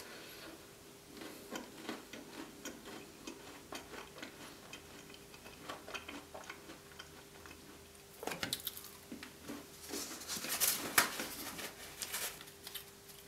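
Close-miked eating of hard gingerbread with custard: small crunches and wet mouth clicks while chewing, with a louder flurry of crunching about ten seconds in.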